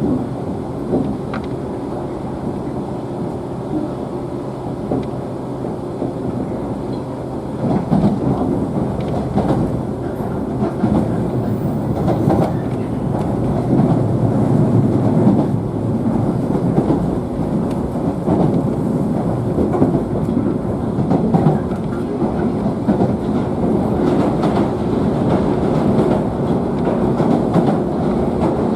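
JNR 113 series electric train running, heard from inside the motor car: a steady rumble of wheels and running gear with a faint hum. From about eight seconds in it grows louder and rougher, with a rapid clatter of wheels over the track.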